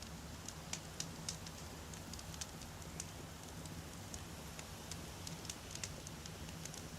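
Wood campfire crackling: many irregular sharp pops and snaps, several a second, over a steady low rumble of the burning fire.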